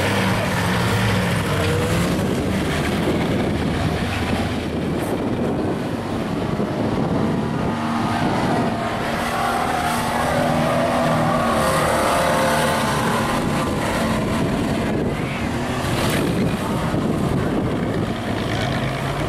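Demolition-derby car engines running and revving, their pitch rising and falling.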